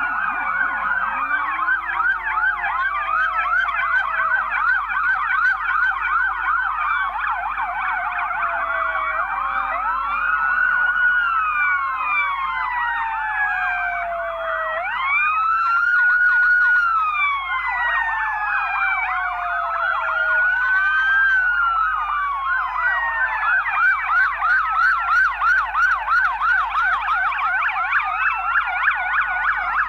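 Several police car sirens sounding at once, out of step: a fast yelp of rapid repeated rising sweeps over slower wails that rise and fall.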